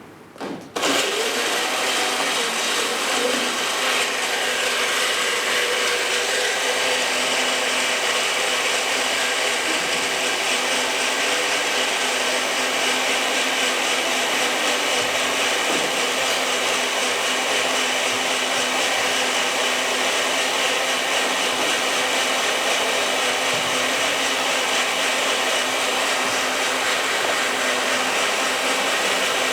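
A small electric motor running steadily with a dense whirring noise, switched on abruptly about a second in.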